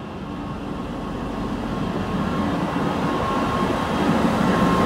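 A TransPennine Express Class 185 diesel multiple unit running alongside the platform, its diesel engines and wheels on the rails growing steadily louder as it draws level.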